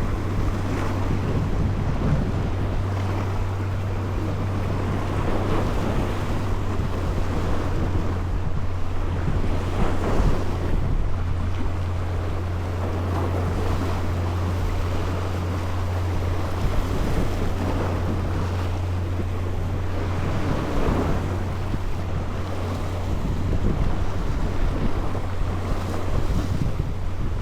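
Wind buffeting the microphone and water washing around a boat at sea, rising and falling irregularly over a steady low hum.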